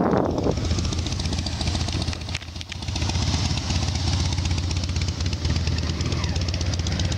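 Motorcycle engine running steadily, with a brief dip in loudness about two and a half seconds in.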